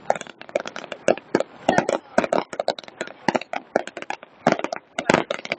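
Fireworks crackling: a dense, irregular run of sharp cracks and pops, several a second.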